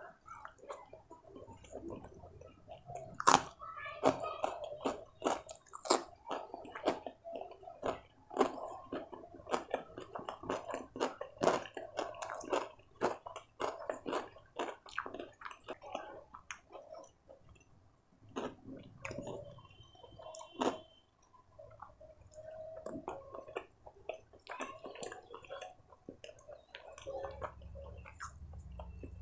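Close-miked open-mouthed chewing of paneer paratha with corn palak curry: wet smacking and squishing mouth sounds, several clicks a second, with the loudest smack about three seconds in and a sparser stretch of a few seconds past the middle.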